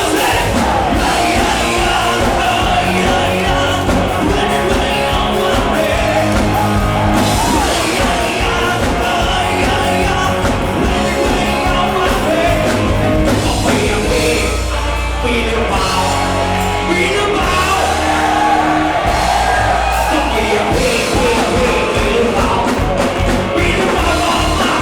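Live rock music with a man singing and a band, amplified through a PA.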